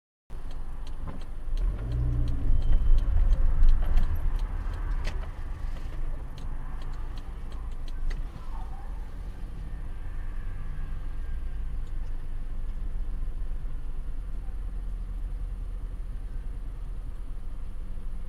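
Car running on the road, a steady low rumble that swells for the first few seconds and then settles, with scattered sharp clicks and knocks over the first eight seconds.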